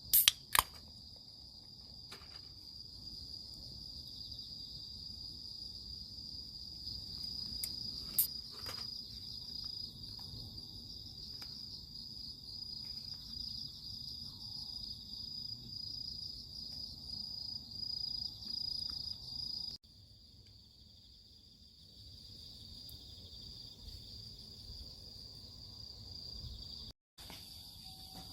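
Late-summer insects chirping in a steady, high, pulsing chorus. A few sharp clicks cut through it, two loud ones right at the start and another about eight seconds in.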